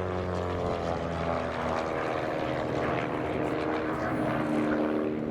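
Van's RV-8 aerobatic aircraft flying past with a steady propeller-engine drone. The pitch slides gradually as the aircraft pass.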